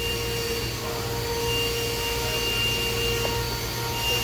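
Steady machine-shop machinery hum with a few thin, high steady whines, from powered-up CNC equipment such as a vertical machining center's pumps and motors.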